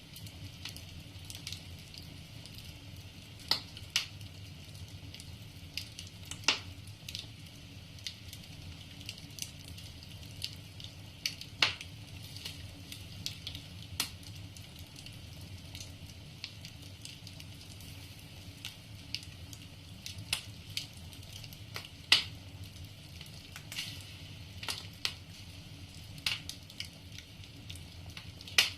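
Wood fire crackling in a fireplace: irregular sharp pops and snaps of burning logs, a few much louder than the rest, over a steady low background.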